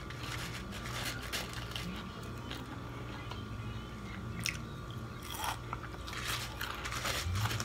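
Close-up chewing of potato chip crumbs, with many small, irregular crisp crunches.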